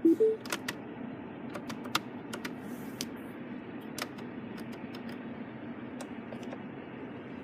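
Dashboard switches and buttons in a Mini's cabin clicking, a scatter of sharp clicks, the first ones close together and then more spread out. A short rising three-note electronic chime sounds right at the start.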